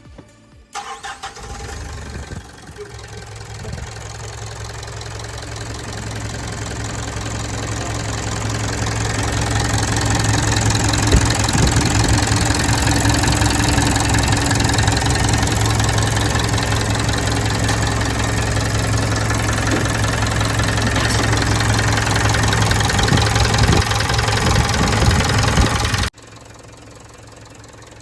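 Mitsubishi Fuso Canter's 4P10 four-cylinder diesel starting up and then running steadily, getting louder over the first several seconds. It cuts off suddenly near the end.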